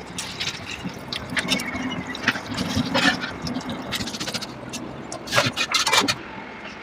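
Kitchen utensils clinking, knocking and scraping while okra sabzi is prepared, with a busier run of sharp clicks near the end.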